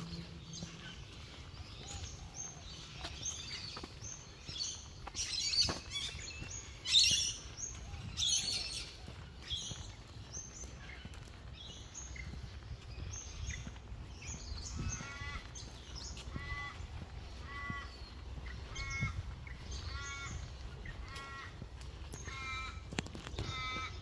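Birds calling: a burst of loud, sharp high calls around five to nine seconds in, then a run of repeated harsh calls, about one a second, through the second half.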